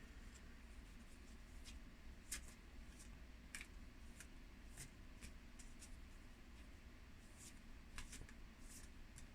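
Near silence with faint, scattered soft clicks and rustles of oracle cards being handled and shuffled as an angel card is drawn.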